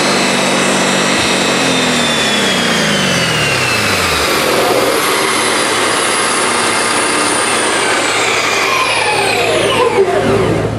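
Lexus IS-F's 5.0-litre V8 through an ISS Forged DES exhaust, winding down on a chassis dynamometer. The engine note falls in pitch over the first few seconds. A high whine slides slowly down, drops away about ten seconds in, and leaves a steady low hum.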